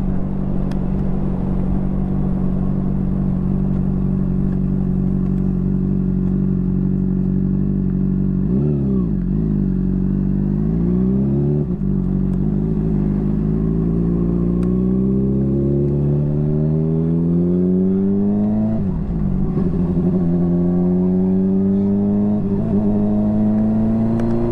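Motorcycle engine running steadily, then from about eight seconds in climbing in pitch as it accelerates, dropping back twice, near twelve and nineteen seconds, at gear changes, and climbing again.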